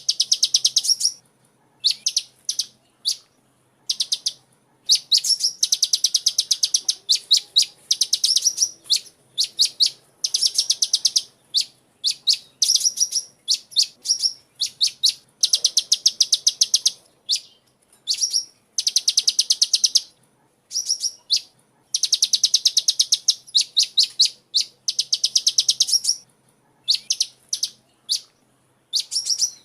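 Sunbird (the bird kept as 'kolibri' in Indonesia) calling in fast trills of sharp, high chips, about ten a second, in bursts of one to two seconds with short pauses between, repeated over and over.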